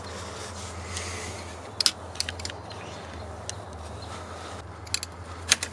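A few scattered sharp clicks and taps of hand work on a car's engine bay, over a steady low hum.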